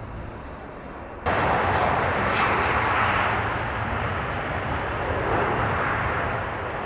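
Airplane engine noise: a loud, steady rush that starts abruptly about a second in, after quieter background noise.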